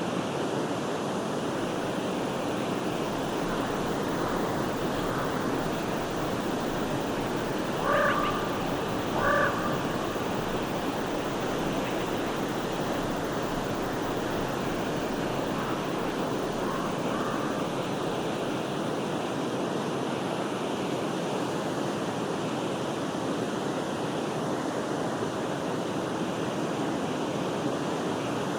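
Steady rushing of a forest river, with two short harsh bird calls about a second and a half apart roughly a third of the way in, and a few fainter calls a little later.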